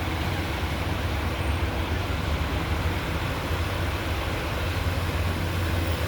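Motor vehicle engine running with a steady low rumble under a constant noisy wash.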